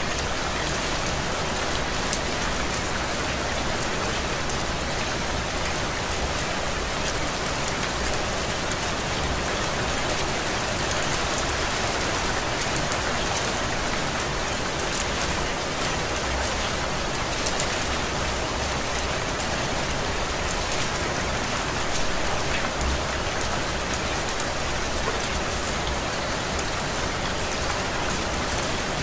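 Steady rain falling, an even hiss of rain with fine patter of individual drops hitting a surface.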